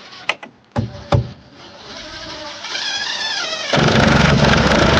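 Power driver sinking a self-tapping screw through plywood into a joist: a few clicks, then a motor whine rising in pitch. Almost four seconds in comes a loud rattling hammering, which cuts off sharply near the end.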